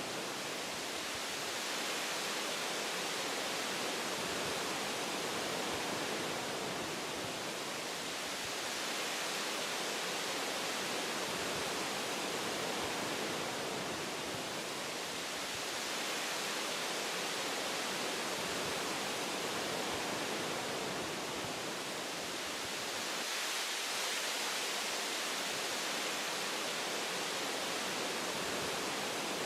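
Wind blowing through tree branches, a steady rushing hiss that swells and eases gently every several seconds.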